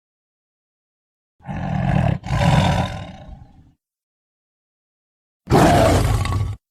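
Sabre-toothed cat (Smilodon) roar sound effects: a two-part roar with a brief catch in the middle, starting about a second and a half in and lasting about two seconds, then a shorter roar of about a second near the end, with dead silence between them.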